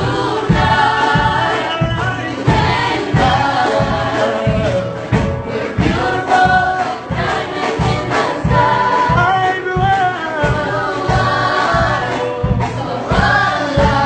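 A song: a solo singing voice, with fuller choir-like vocals, over instrumental backing with a steady low beat about twice a second.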